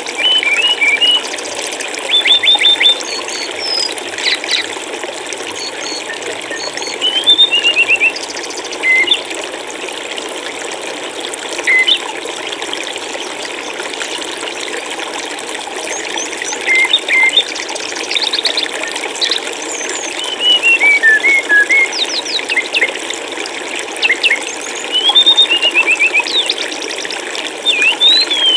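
Flowing water running steadily, with small birds chirping and trilling over it in short bouts every few seconds.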